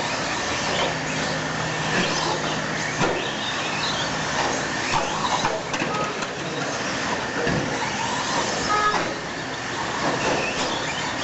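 Several radio-controlled stadium trucks racing together, their motors whining and changing pitch over and over as they speed up and slow down around the dirt track.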